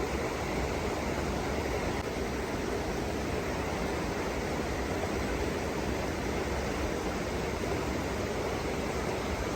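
Steady rush of a mountain stream's flowing water, an even hiss that holds at one level throughout.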